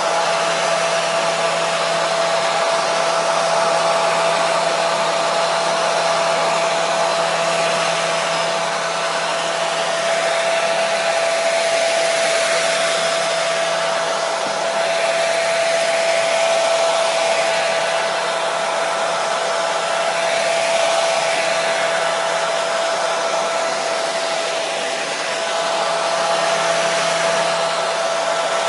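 Hair dryer running continuously: a steady rush of air with a constant motor whine held at one pitch.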